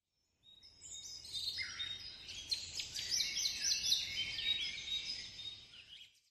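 Several songbirds chirping and singing at once, short high calls and quick pitch sweeps overlapping, fading out near the end.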